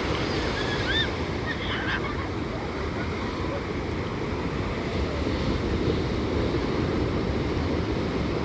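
Gentle Pacific surf washing steadily on a sand beach under a calm sea, with wind rumbling on the microphone. A few brief high chirps sound about a second and two seconds in.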